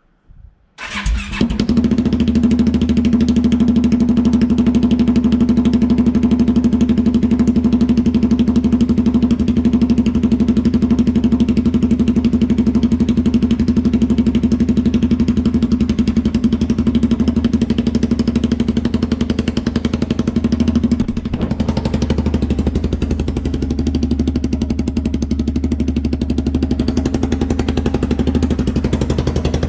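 Polaris Sportsman 570 ATV's single-cylinder four-stroke engine, straight-piped with the muffler removed, starting about a second in and then running loud and steady at idle through the open exhaust pipe. The level dips briefly about two-thirds of the way through, then runs on slightly quieter.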